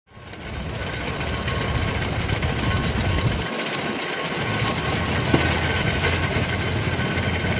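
Compact tractor's small diesel engine running steadily, a low hum under a broad even noise. The low hum drops away briefly about three and a half seconds in.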